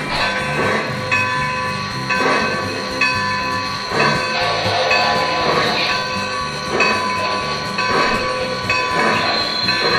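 Lionel Legacy Santa Fe 2-10-4 Texas model steam locomotive's onboard sound system running, with soft rhythmic pulses about once a second under background music with held notes.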